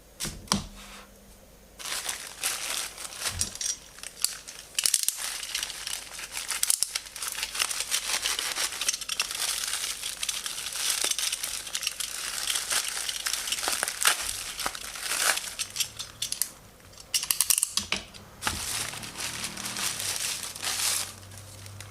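Packaging being torn open and crinkled by hand during an unboxing: a long stretch of dense crackling and rustling with sharp crinkles, starting about two seconds in and dying down near the end.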